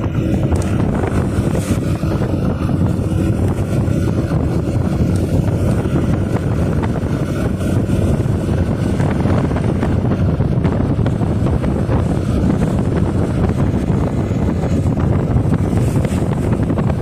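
Motorcycle running at a steady cruise, its engine drone mixed with wind rushing over the microphone.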